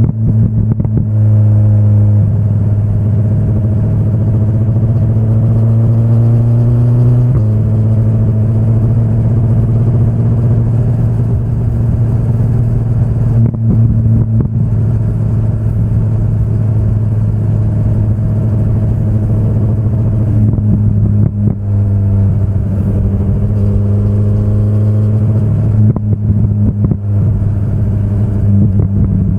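A 2025 BMW S1000RR's inline-four engine running on the move, holding a fairly steady note whose pitch shifts in steps a few times.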